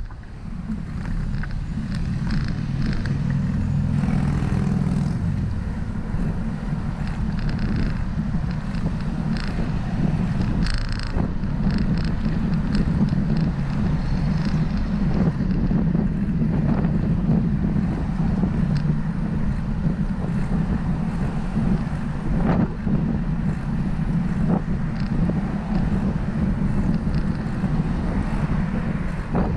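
Wind buffeting the microphone of a camera riding on a moving bicycle, a steady low rumble with scattered clicks and rattles.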